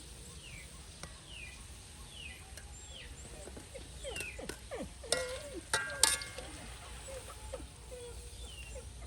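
Animal calls: a series of short high cries, each sliding down in pitch, about two a second, with a few sharp knocks and a louder, harsher call about five to six seconds in.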